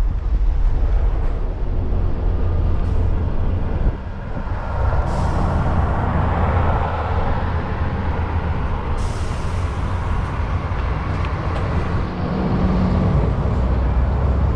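Scania S650 truck's V8 diesel engine running steadily, with two short hisses of compressed air, about five and nine seconds in.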